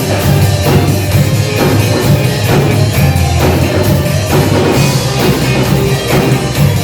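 Live rock band playing an instrumental passage between sung lines: drum kit keeping a steady beat under bass and guitar.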